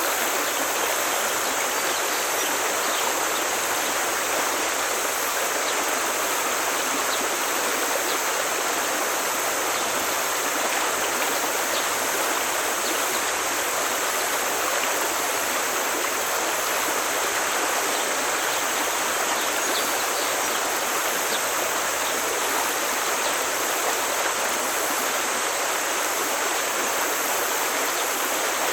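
Forest stream flowing over stones, a steady rushing of water.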